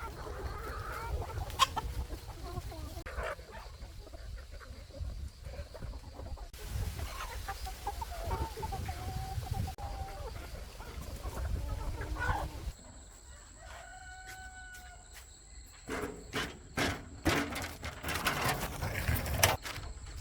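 Chickens clucking and a rooster crowing, with drawn-out calls near the middle. Several sharp knocks come near the end.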